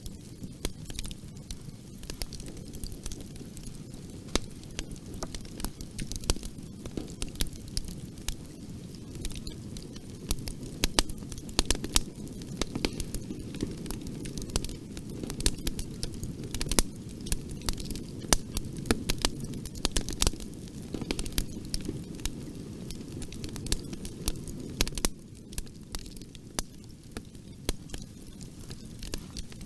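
Fireplace fire burning, its steady low rumble broken by many irregular sharp crackles and pops, thickest in the middle stretch and thinning out near the end.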